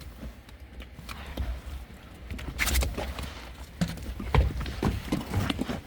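Sheep hooves clattering and scuffling as the ewes shift about under handling, irregular knocks with a louder scuffle about halfway through.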